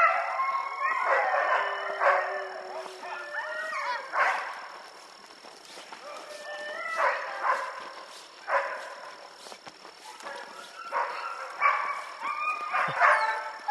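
Sled dogs barking and yipping in bursts of high, bending calls, several at once, easing off for a few seconds in the middle.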